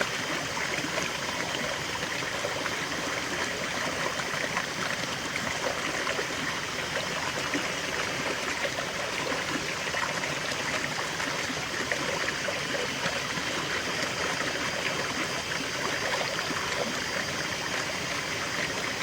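River water flowing and splashing steadily over stones, a continuous even rush.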